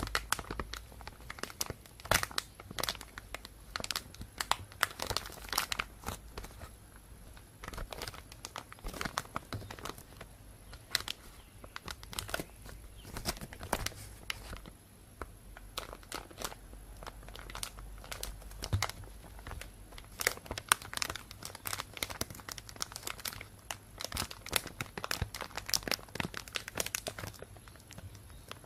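Thin plastic bag being crinkled and rustled, with irregular crackles coming in quick clusters throughout.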